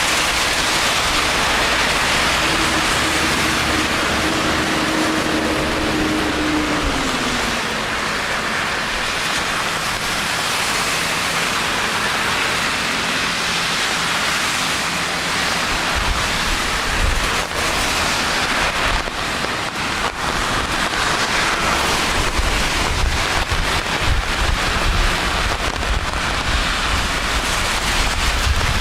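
Steady rain falling on a city street, a dense hiss. A low hum slides down in pitch about seven seconds in, and low rumbling comes and goes in the second half.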